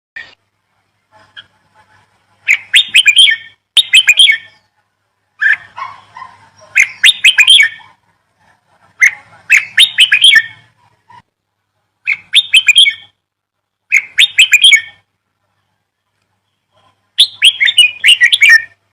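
Birds chirping in short bursts of rapid notes, each burst about a second long and repeated every second or two, with a longer pause about two-thirds of the way through.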